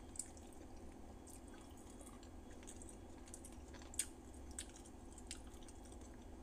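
Quiet eating by hand: scattered soft, wet clicks and smacks of chewing and of fingers pushing rice into the mouth, with one sharper click about four seconds in, over a low steady hum.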